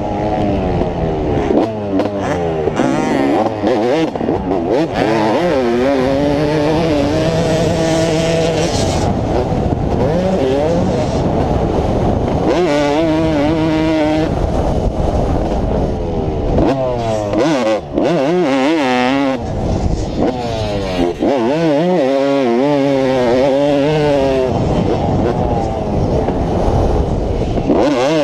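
Motocross dirt bike engine run hard around a track, its pitch climbing and dropping again and again as the throttle is opened, held and chopped through the gears, with short dips at about 18 and 21 seconds where the throttle is shut off.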